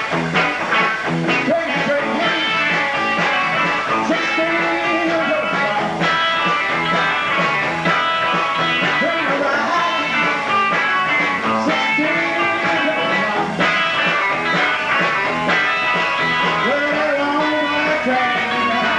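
Rock and roll band playing an instrumental break: guitars over bass and drums, with bending guitar notes.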